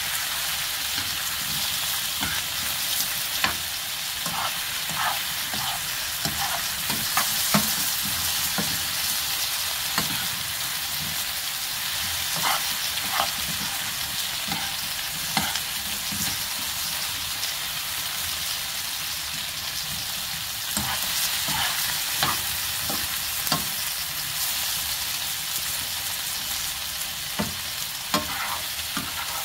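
Slices of Manchalang sweet pumpkin sizzling steadily as they stir-fry in oil in a nonstick pan, with the spatula scraping and knocking against the pan every few seconds as it turns them.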